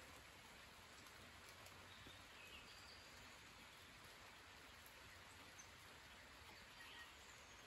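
Faint light rain falling on spring woodland, a soft steady hiss, with a few faint distant bird chirps, one about two and a half seconds in and another near the end.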